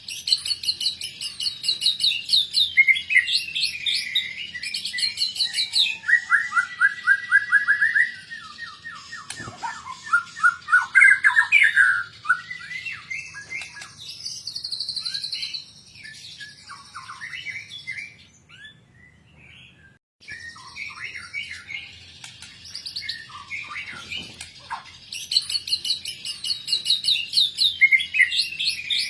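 A white-rumped shama (murai batu) singing a varied song of fast repeated notes, trills and gliding whistles, full of 'isian', the borrowed phrases of other birds. The song grows quieter and breaks off for a moment a little past the middle, then comes back loud near the end.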